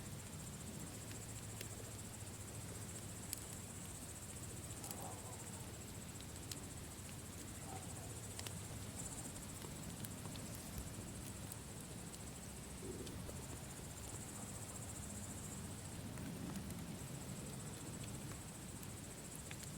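Campfire crackling with scattered sharp pops over a low steady flame rumble, while crickets chirp steadily and high-pitched in the background.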